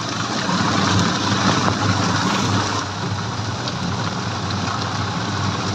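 Heavy rain and wet-road tyre noise as a steady hiss, heard from inside a moving motor rickshaw, under the low, pulsing note of the rickshaw's engine.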